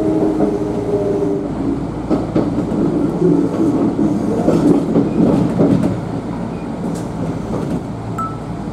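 Kintetsu electric train rolling along the track, heard from inside behind the driver's cab: a steady rumble and hum with the clack of wheels over rail joints and points. It grows quieter over the last few seconds as the train slows to arrive at a terminus.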